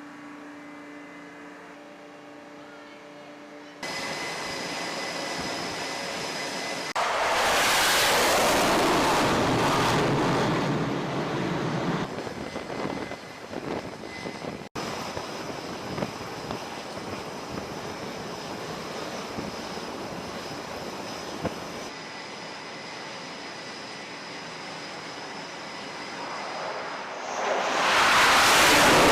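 F/A-18 Hornet jet engines on a carrier flight deck: a steady high whine over engine noise. The noise swells to a loud roar about a quarter of the way in and again near the end. The level jumps abruptly several times between shots.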